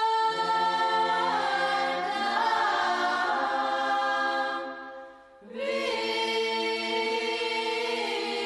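Background music of choral voices singing long held chords that change every second or two, fading to a brief pause about five seconds in before the next phrase begins.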